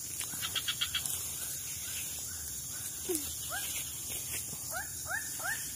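A bird calling in a series of short rising notes, coming about three a second in the second half, over a steady high hiss. A brief rattle of clicks about half a second in.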